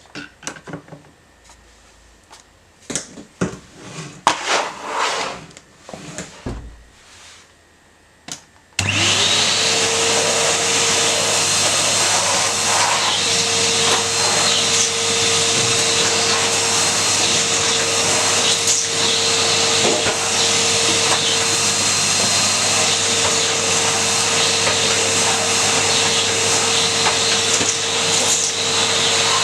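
A few seconds of scattered clicks and knocks, then a vacuum cleaner switches on about nine seconds in and runs steadily with a constant motor whine.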